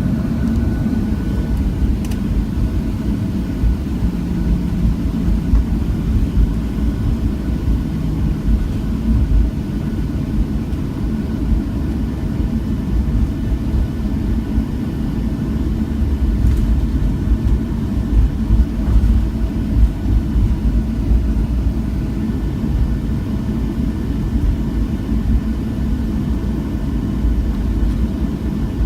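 Steady low rumble of a Boeing 737's engines and airframe heard inside the passenger cabin, with faint steady engine tones above it.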